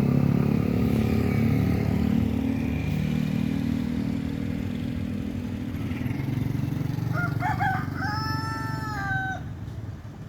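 A steady low engine drone that slowly fades. About seven seconds in, a rooster crows: two short notes, then one long held note that drops at the end.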